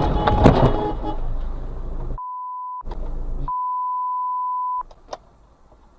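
Two pure, steady beeps near 1 kHz, a short one and then one over a second long, each set against complete silence, like a censor bleep edited into the audio. Before them comes noisy dashcam road and cabin sound, and after them only faint clicks.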